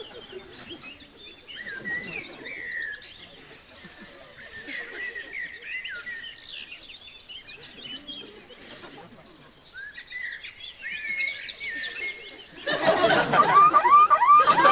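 Several birds chirping and singing in short warbling phrases, with fast high trills a little before the end. About two seconds before the end the sound abruptly becomes much louder and denser, with more calls and trills over a loud rushing background.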